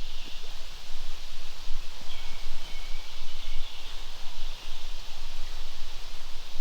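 Outdoor wind ambience: wind gusting on the microphone with a fluttering low rumble, plus rustling. Faint high chirps come through about two seconds in.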